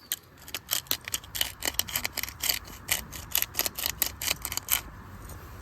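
Cooking utensil clicking and scraping rapidly against a pot, about four or five strokes a second, stopping about five seconds in.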